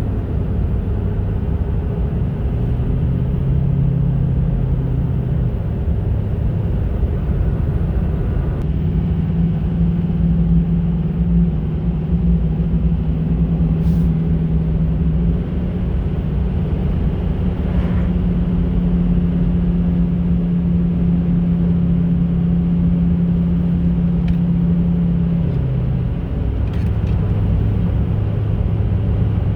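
Diesel pickup truck engine running steadily under load while driving, its note stepping up in pitch a few times and then dropping back near the end. The truck has logged random and cylinder 2 misfire codes (P0300, P0302).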